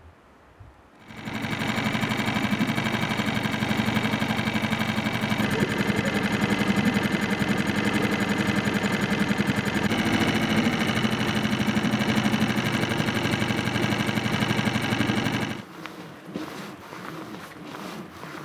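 A motor running steadily with a fast mechanical rattle. It starts abruptly about a second in, shifts slightly in pitch twice, and cuts off abruptly near the end, leaving wind noise.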